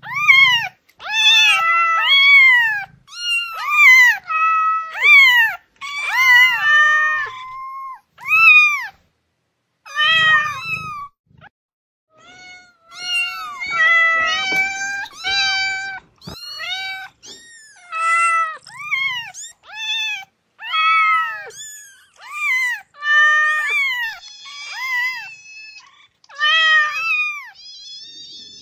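Kittens meowing over and over in a quick run of short, high-pitched meows, each rising and falling, with a brief pause about halfway through.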